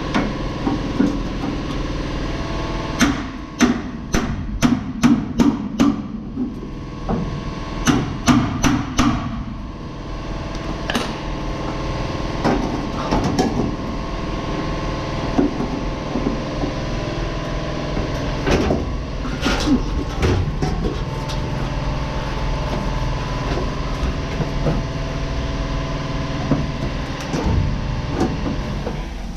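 Hammer blows on metal, in quick runs of several strikes with pauses between, over a steady hum.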